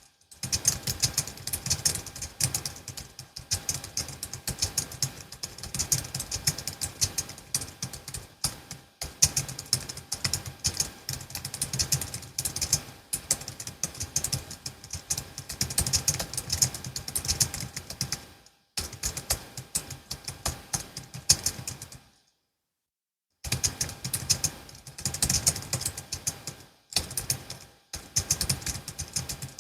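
Continuous typing on a Logitech MX Keys S low-profile scissor-switch keyboard: fast, dense key clicks in long runs, stopping briefly a few times and pausing for about a second and a half a little past the middle.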